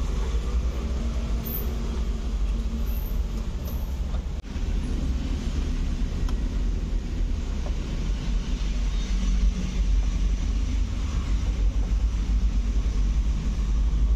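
Honda CR-Z idling, a steady low rumble heard inside the cabin.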